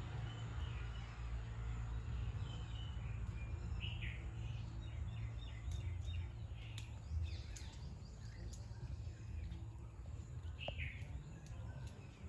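Wild birds chirping in short, falling calls, the clearest about four seconds in and again near the end, over a low steady outdoor rumble, with a few faint sharp clicks in the middle.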